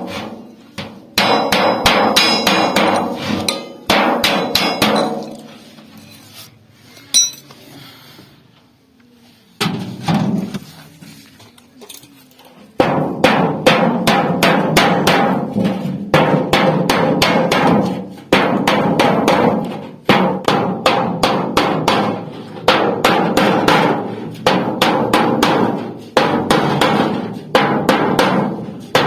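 Hand hammer beating sheet metal into a pot shape, many quick ringing blows a second in runs of a few seconds with brief pauses, and a quieter lull of scattered lighter taps in the first half.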